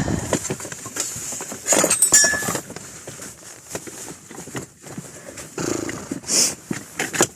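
Irregular knocks and clatter of objects being shifted about while searching through parts, with a brief ringing clink about two seconds in.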